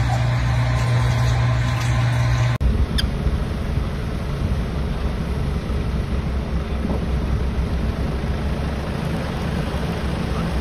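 A vehicle engine running with a steady low hum, then after a sudden cut about two and a half seconds in, a steady rumbling noise.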